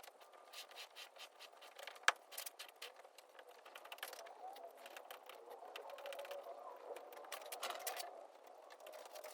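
Faint scraping and a quick run of small clicks from a knife working through the old windshield sealant from outside, with one sharper click about two seconds in.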